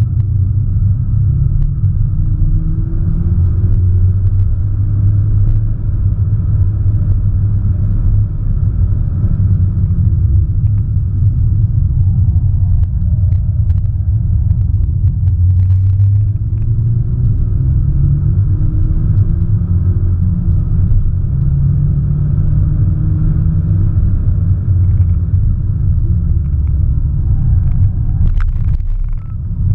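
Audi S1 Sportback's turbocharged 2.0-litre four-cylinder engine and road noise heard inside the cabin at track speed: a deep, steady rumble, with the engine note rising again and again as it pulls through the gears. The sound dips briefly near the end.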